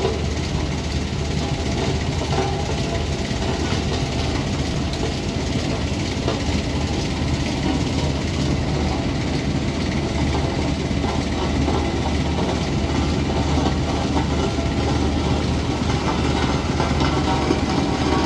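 Heavy vehicle engines running steadily in traffic, a low hum under a constant noisy haze.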